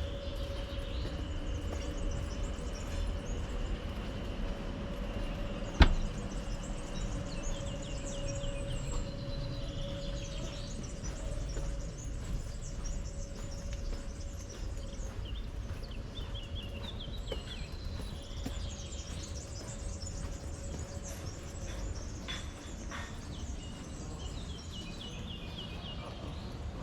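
Outdoor ambience of small birds chirping and twittering again and again over a low rumble, with a steady hum that fades out about halfway through. A single sharp knock about six seconds in is the loudest sound.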